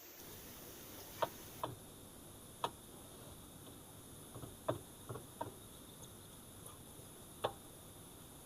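About eight light, sharp knocks and clicks at irregular intervals, over a faint steady hiss.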